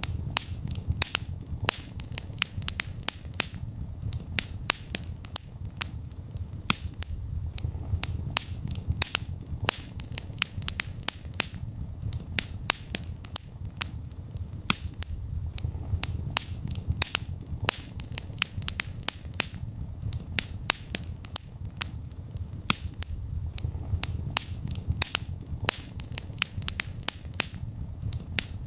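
Wood fire burning in a fireplace: a steady low rumble of the flames with many sharp, irregular crackles and pops, several a second.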